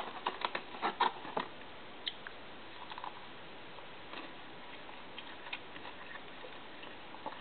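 Mouth sounds of biting and chewing a breaded chicken tender, with light crisp clicks from the breading. The clicks cluster in the first second and a half, then thin out to occasional soft ticks.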